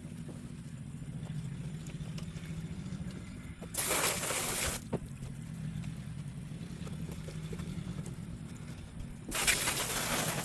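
Water spraying hard onto the truck bed in two bursts of about a second each, about four seconds in and again near the end, over a steady low machine hum.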